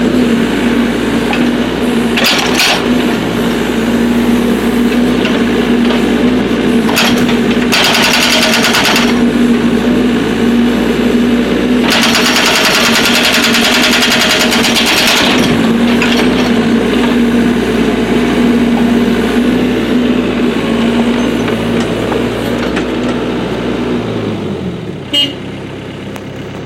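Excavator diesel engine running steadily while its hydraulic breaker hammers in two bursts, a short one about eight seconds in and a longer one of about three and a half seconds starting around twelve seconds in, with a few single knocks between. Near the end the engine drops in speed and gets quieter.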